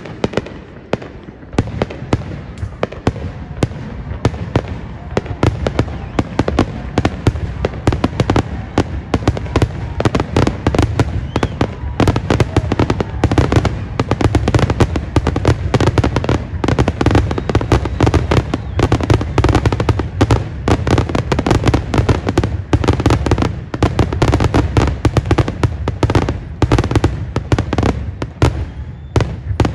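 Aerial fireworks shells bursting in rapid, overlapping succession: a dense barrage of booms and crackles, heaviest through the middle, that stops just before the end, the sound of a display's grand finale.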